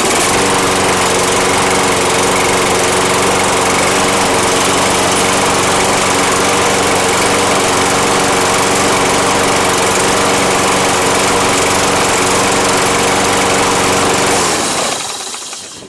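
Toro Recycler lawn mower's Kohler engine running at a steady speed, keeping running rather than dying, which confirms the carburetor was behind the run-and-die fault. Near the end it is shut off and winds down.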